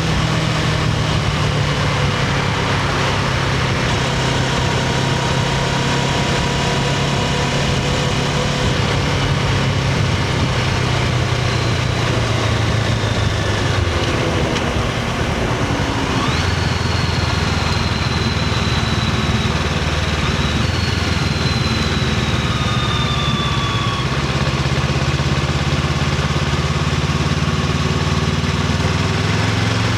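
Honda CBR500R's parallel-twin engine running through its stock exhaust, a steady low note that shifts in pitch about halfway through.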